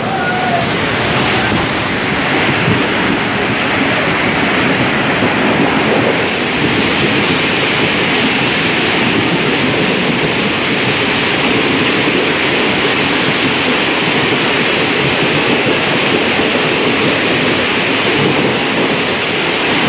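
Steady, loud rush of water thrown up by a train running at speed through floodwater over the tracks.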